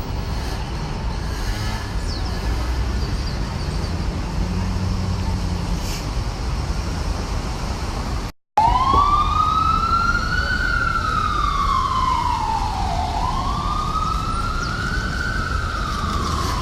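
Steady low rumble of city traffic, then, after a brief break, an emergency vehicle siren wailing, its pitch rising and falling slowly, about one sweep every four seconds.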